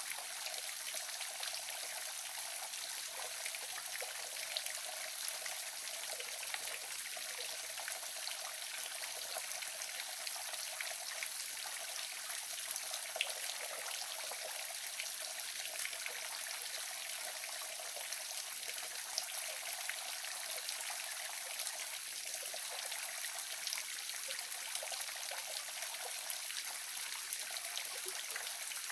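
Waterfall splashing steadily: a constant hiss of falling water with many small splashes and drips through it.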